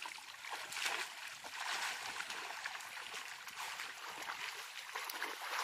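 Water splashing and trickling in a pool: a steady wash of small splashes and drips.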